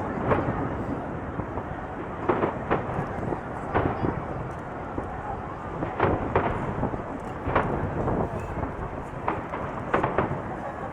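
Aerial fireworks bursting: sharp bangs come irregularly, about every second or so, over a continuous rumble of overlapping bursts.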